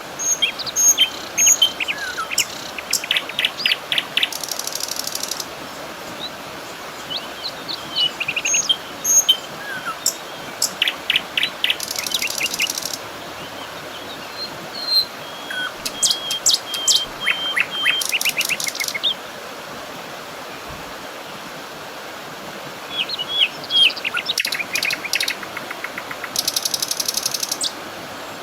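Songbirds chirping and singing fast high trills in bouts, with a lull of a few seconds near the end, over a steady rushing hiss.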